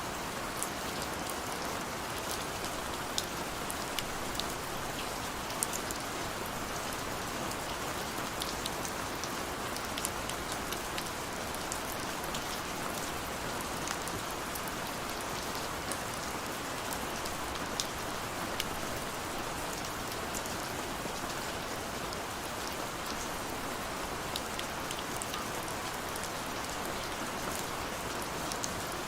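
Steady rain: a constant hiss with many small, sharp drop ticks scattered through it.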